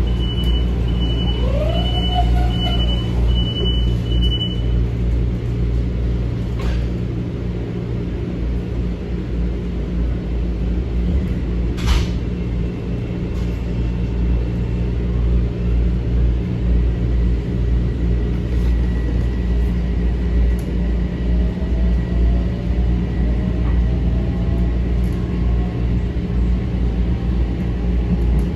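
Metro-North M7 electric train running between stations, heard from inside the car: a steady low rumble of wheels on the rails. A repeated high beeping sounds for the first few seconds, a sharp click comes about twelve seconds in, and a faint rising whine from the drive comes in near the end as the train picks up speed.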